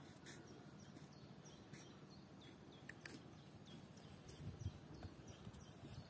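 Faint scattered bird chirps, many short falling notes a few times a second, over a low rumble, with one sharp click about halfway through.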